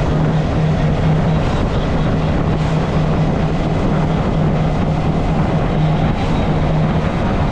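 Motorcycle engine running steadily and loudly, with a low hum that swells and fades, under a heavy rushing noise.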